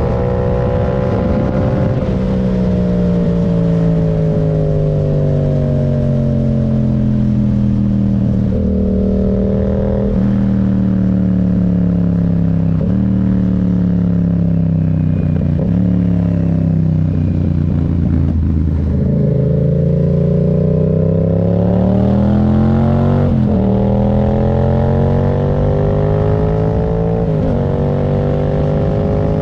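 Yamaha MT-07's 689 cc parallel-twin engine under way. The revs fall slowly through the first half with a few brief breaks, then climb from about two-thirds of the way in. A gear change comes shortly after, and the engine then holds a steady speed.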